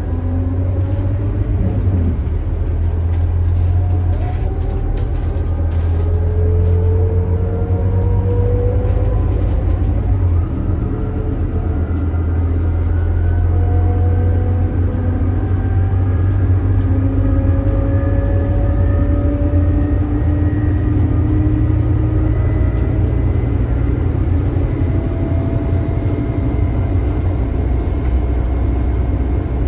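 Scania K280IB bus, with its five-cylinder DC9 turbo diesel and ZF Ecomat six-speed automatic, under way: a steady low engine drone with a whine that rises in pitch several times, starting lower again each time, as the bus picks up speed.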